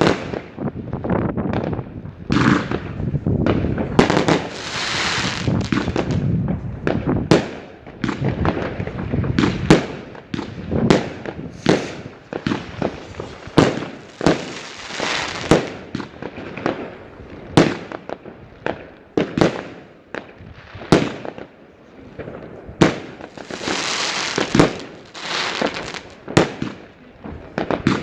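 New Year's Eve fireworks going off: a rapid run of sharp bangs from shells and firecrackers, with stretches of hissing crackle in between.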